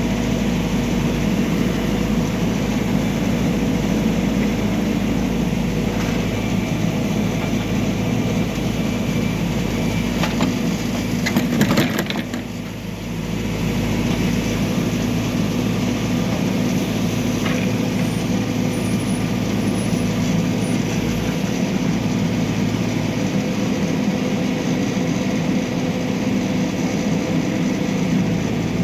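A backhoe loader's diesel engine runs steadily. About eleven seconds in there is a short cluster of sharp cracks, after which the engine sound briefly drops off before settling back.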